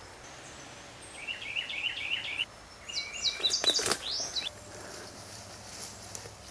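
A songbird singing over steady outdoor hiss: a run of quick repeated chirps a little after a second in, then a brief, higher phrase about three seconds in. A short knock sounds in the middle of that second phrase.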